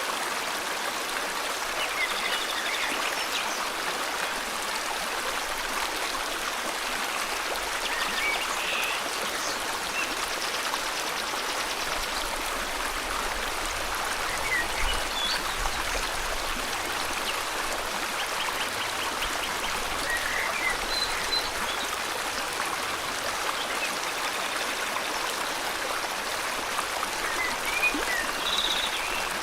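River water flowing steadily, with scattered short bird chirps and trills over it every few seconds.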